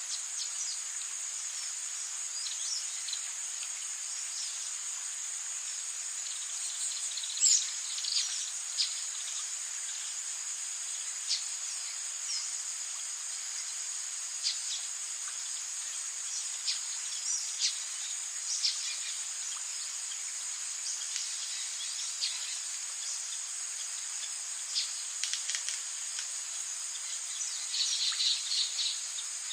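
Rainforest ambience: a steady, high insect chorus, with short chirps and calls scattered over it and a brief flurry of them near the end.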